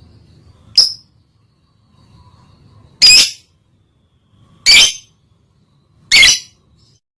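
Lovebird in breeding condition giving short, shrill squawking calls: a brief one about a second in, then three louder ones about a second and a half apart.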